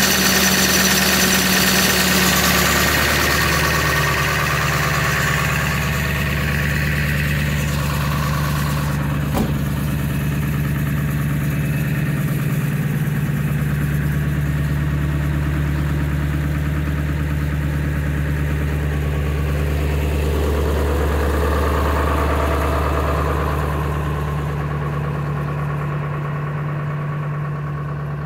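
Ford E-350's 7.3 L Power Stroke V8 turbo diesel idling steadily while warming up from a cold start in freezing weather. The idle note drops slightly about three seconds in, and there is a single short click about nine seconds in.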